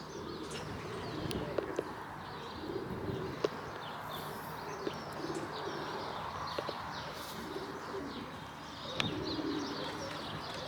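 Racing pigeons cooing in repeated low phrases, with small birds chirping at a higher pitch over them and a few sharp clicks.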